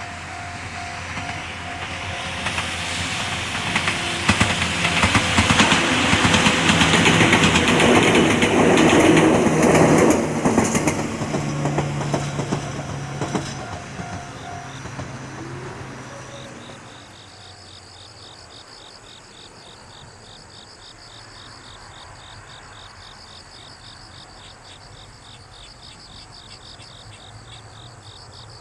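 An Ohmi Railway electric train approaches and passes, its wheels clattering over the rail joints. The sound grows loud and then fades away about halfway through. A repeating tone runs under it and stops as the train goes. Afterwards insects, crickets, chirp in a fast, even trill.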